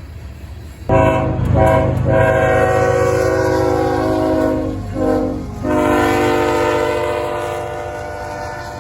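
CSX freight locomotive's multi-chime air horn sounding a salute. Several blasts are broken by brief gaps about a second in and twice around five seconds, then one long blast fades away. The low rumble of the passing freight train runs underneath.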